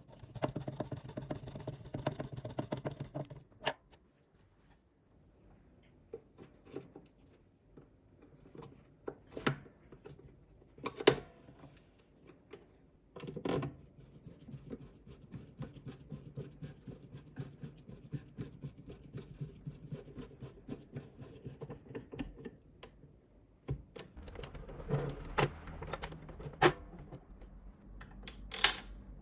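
Clicks and knocks of small mechanical parts being handled, with a low steady hum in the background at times.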